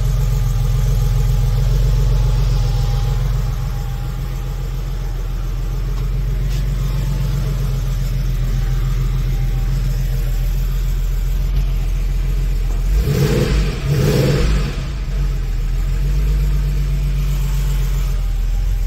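Air-cooled flat-six engine of a 1987 Porsche 911 Cabriolet idling steadily, with two short louder bursts about two-thirds of the way through.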